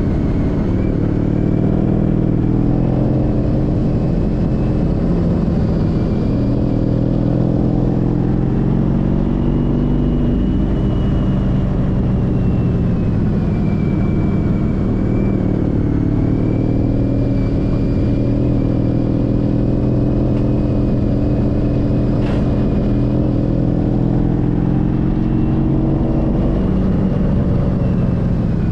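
Honda CTX1300's V4 engine running under way, its note slowly rising and falling with the throttle over steady wind and road noise. A single brief sharp click late on.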